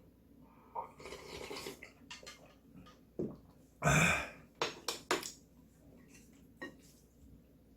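Close-up eating sounds of cold mixed ramyun noodles being slurped and chewed, with a louder noisy slurp about four seconds in followed by a few sharp clicks.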